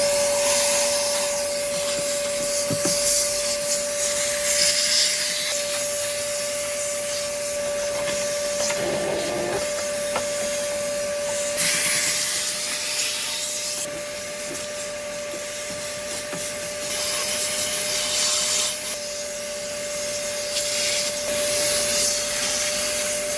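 Vacuum cleaner running with a steady whine, sucking debris out of a car's engine air filter housing; the rush of air swells several times as the nozzle is moved around.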